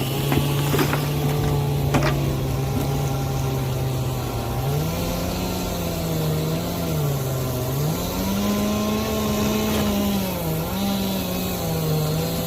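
An engine running steadily, then revving up and down again and again from about a third of the way in, with a few sharp knocks near the start.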